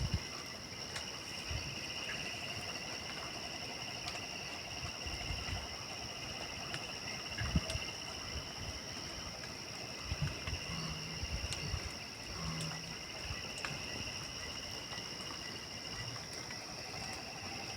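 Night chorus of crickets and other insects: a steady high-pitched chirring at two pitches, with a lower pulsing trill beneath. Scattered faint clicks and a few dull low thumps, the loudest about seven and a half seconds in, lie over it.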